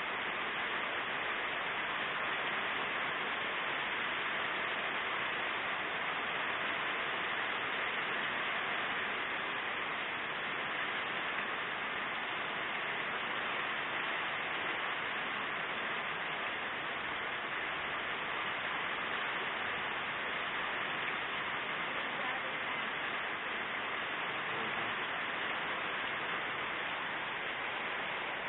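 Heavy rain from a storm, falling in a steady, unbroken hiss.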